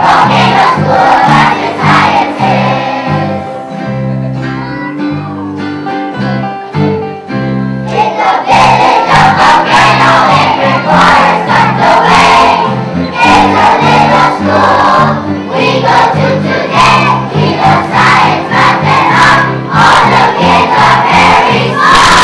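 A group of young children singing a song together with instrumental accompaniment, softer for a few seconds after the start and then full again.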